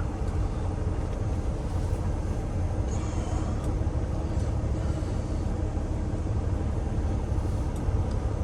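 Heavy truck's diesel engine running with a steady low rumble, typical of a Peterbilt 389 with a Cummins X15.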